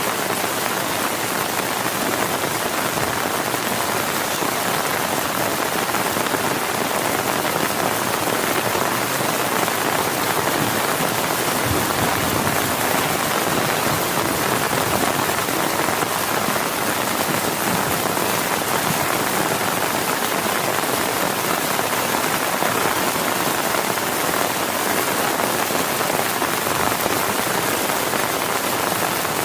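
Heavy rain falling steadily, a dense, even downpour without letting up and with no thunder.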